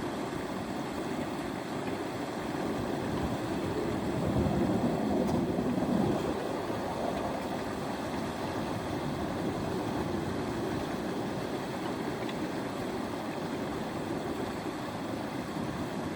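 Water rushing and lapping steadily around a bamboo raft on a river, swelling louder for a couple of seconds about four seconds in.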